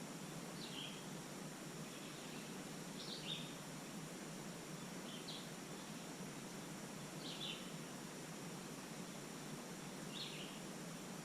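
A small bird repeating a short, high chirp that drops in pitch, about once every two seconds, over a steady background hiss.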